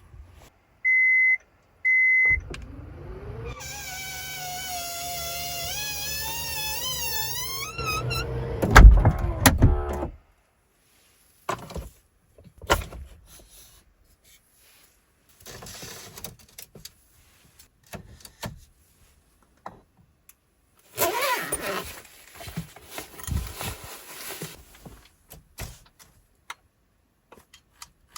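A minivan's power door closes: two short warning beeps, then the door motor whines with a rising, wavering pitch for several seconds, ending in a heavy thunk as the door latches. Scattered knocks and clatter follow.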